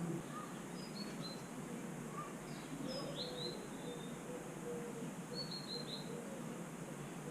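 Small birds chirping: short, high chirps in three brief clusters, about a second in, around three seconds in and near six seconds, over a steady background hum.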